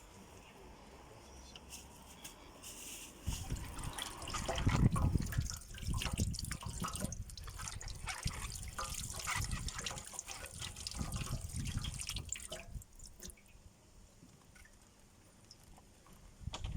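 Water splashing and dripping in an irregular stream, starting about three seconds in, loudest soon after, and dying down near the end.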